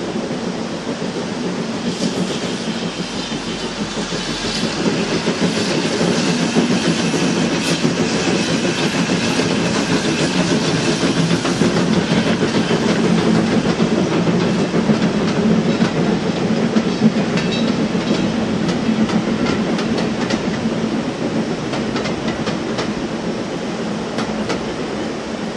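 Steam-hauled passenger train crossing a steel girder bridge, its wheels clicking over the rail joints in a long run of clicks that builds, peaks midway and fades as the last coach passes, over the steady rush of the river below.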